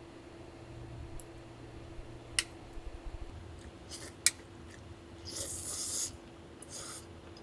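Small handling noises over a faint steady hum: two sharp clicks, then two short bursts of rustling, scraping hiss near the end.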